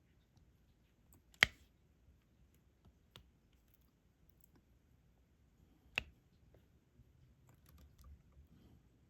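Sharp, scattered plastic clicks of diamond painting work: a drill pen and small resin drills tapping against the canvas and tray. The two loudest clicks come about a second and a half in and about six seconds in, with fainter ticks between.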